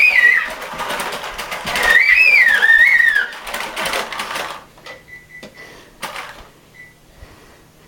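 A plastic toy truck clicking and rattling rapidly as it is played with, loudest in the first four seconds and then sparser. A wavering high whistle-like tune sounds briefly at the start and again about two seconds in.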